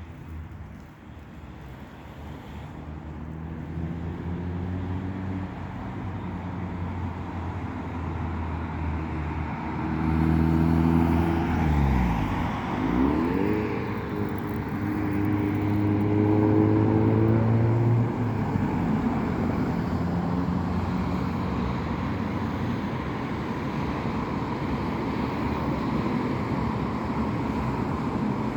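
A car giving off a loud, droning, pitched hum over road noise. The pitch holds steady, dips and swings back up around the middle, then settles again. It is loudest in the middle and eases off toward the end.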